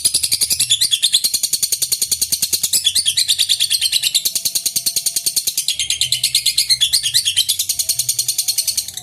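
Lovebird giving a long, unbroken 'ngekek': a rapid, high-pitched chattering trill of many short notes a second.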